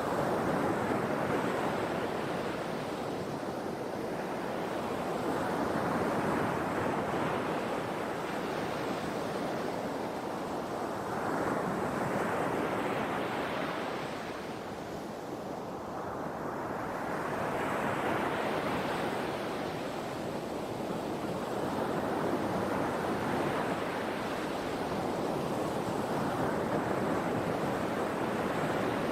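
Ocean waves breaking and washing on the shore: a steady surf noise that swells and ebbs every few seconds, one wave after another.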